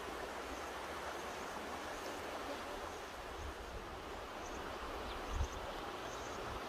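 Mountain river flowing: a steady rush of water, with a brief low thump about five and a half seconds in.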